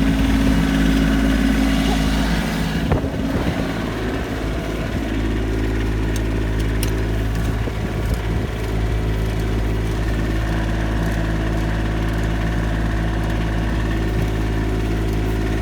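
Kubota B2650 compact tractor's three-cylinder diesel engine running steadily. Its note shifts between about three and five seconds in, then settles again at a steady pitch.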